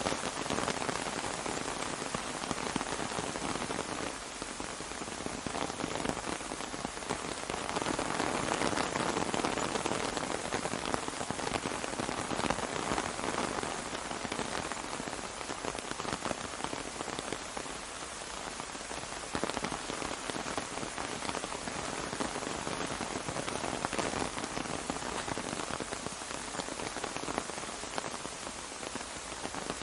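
Steady rain pattering on an umbrella: a dense hiss of drops, a little heavier for a few seconds near the middle.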